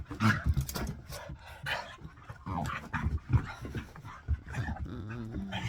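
A dog panting while it plays at chasing its own tail, among irregular short clicks and knocks.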